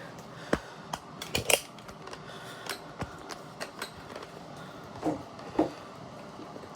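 Scattered light clicks and knocks from plastic parts of a Bissell 3-in-1 stick vacuum being handled, with two louder knocks about five seconds in; the motor is not running.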